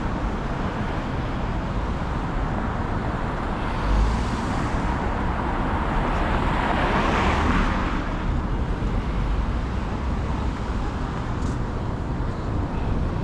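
City street traffic noise, a steady hum of road vehicles, with one vehicle passing that grows louder and fades away about halfway through.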